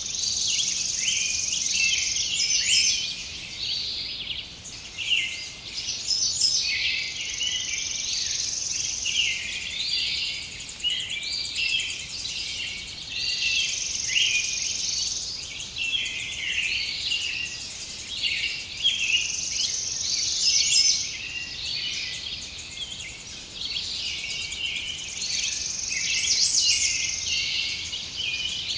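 Many songbirds chirping and trilling over one another in a dense, continuous chorus of short, high calls.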